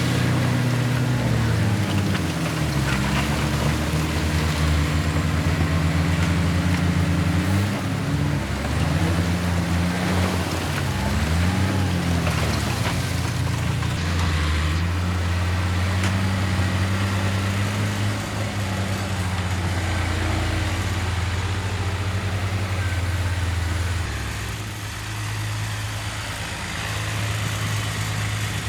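Heavy diesel engines of earthmoving machinery running under changing throttle, the pitch rising and falling several times in the first half, then settling to a steadier, slightly quieter note near the end.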